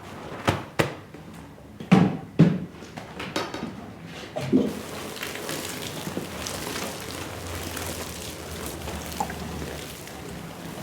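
A few knocks and thuds, then a steady rush of water spraying onto the rug begins about halfway through and carries on.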